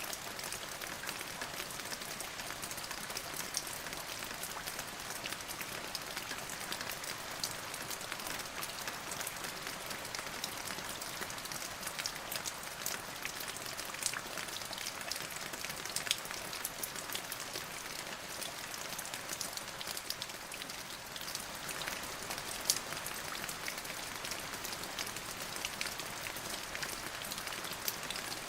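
Steady rain falling on a surface, a continuous hiss with many distinct drop ticks scattered through it.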